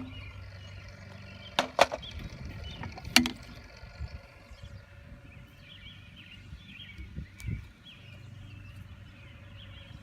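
Plastic rain gauge being handled to empty it: two sharp clacks close together about two seconds in and another a second later, with birds chirping and a steady low hum in the background.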